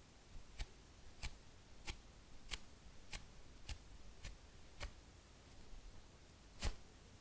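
Hands working a foam food squishy toy: a steady run of short, sharp taps or clicks about every two-thirds of a second, then a pause of a second or so and one louder tap near the end.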